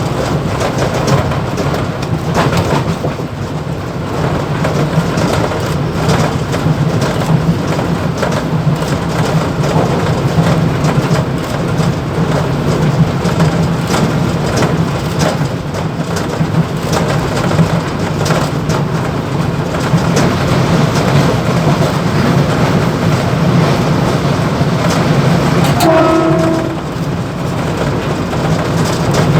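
Mumbai suburban EMU train running at speed, heard from the motorman's cab: a steady running noise with constant clicks and rattling over the track, and a short horn blast near the end.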